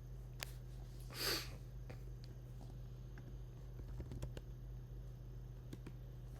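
Quiet room tone with a steady low hum. A short, soft hiss-like noise comes about a second in, and a few faint clicks follow.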